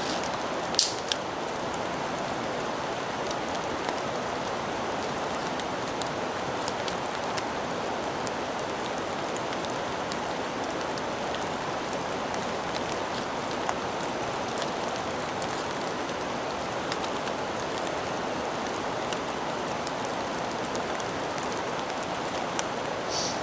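Steady rain falling, with scattered drop ticks and two sharp clicks about a second in.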